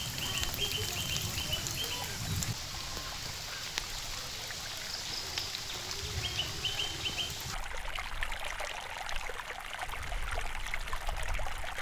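Water trickling and running steadily, with short runs of quick high chirps twice.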